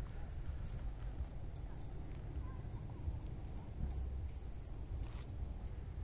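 A bird's high, thin whistled call, given four times in a row; each note is held level for about a second and drops briefly at its end.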